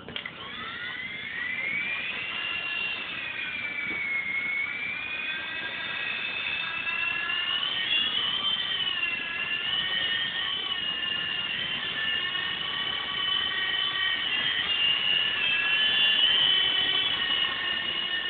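Small electric RC helicopter's motors and rotors whining, rising in pitch as they spin up over the first couple of seconds, then wavering up and down in pitch with the throttle.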